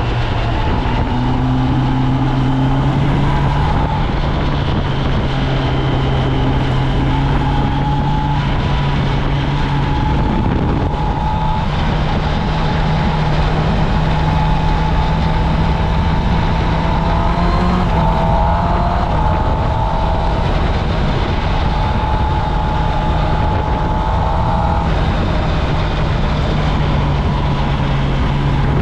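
Kawasaki Ninja ZX-10R's inline-four engine running through its stock exhaust under way, at fairly steady revs, with the pitch rising a little about ten seconds in.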